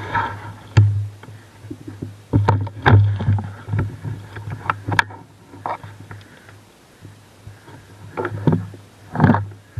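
Scattered sharp clicks and knocks at uneven intervals over a low hum, the loudest about a second in and again about three seconds in.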